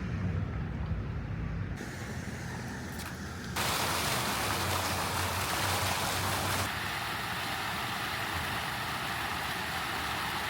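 Steady road and traffic noise, a low rumble under a hiss, with no words. It jumps in level and colour abruptly a few times, louder and brighter from about three and a half seconds in.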